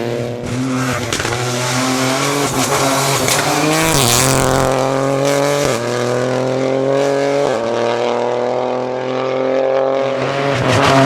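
Lancia Ypsilon Rally4 HF rally car's turbocharged three-cylinder engine accelerating hard. Its pitch climbs through each gear, with sharp drops at upshifts about four, six and seven and a half seconds in, then a long slow climb.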